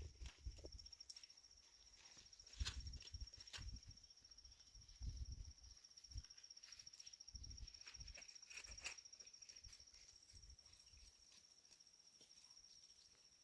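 Near silence: a faint, steady, high insect trill, with scattered soft knocks and clicks of handling.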